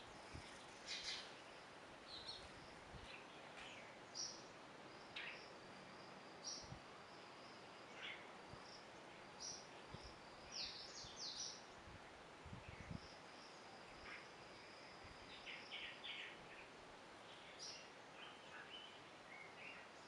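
Faint background hiss with scattered short, high bird chirps, a few coming in quick runs, and a thin high steady tone through much of the middle.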